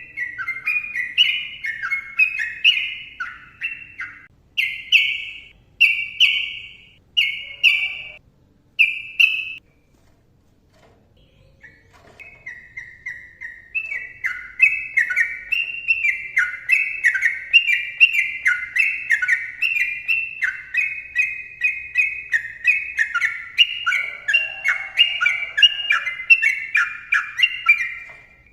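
Yellow-vented bulbul (trucukan) singing loud, rapid chattering phrases of short notes. There are a few spaced-out notes, then a pause of about two seconds, then a long unbroken run of fast notes ("ropel panjang") over the second half.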